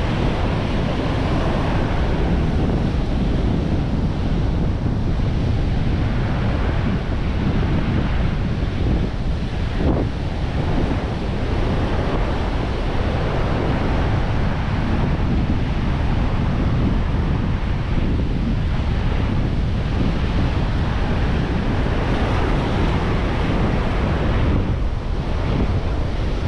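Ocean surf washing onto the beach, with steady wind buffeting the microphone.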